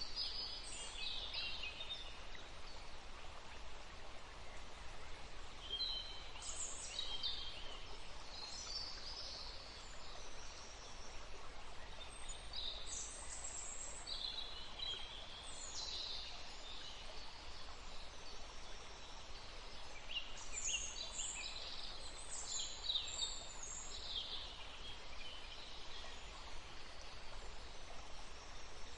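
A woodland stream flowing steadily, with birds chirping in scattered bursts several times over it.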